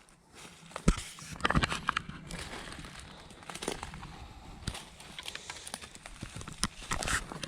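Footsteps crunching through dry leaves and twigs on a forest floor, in an uneven walking rhythm, with a sharper snap about a second in.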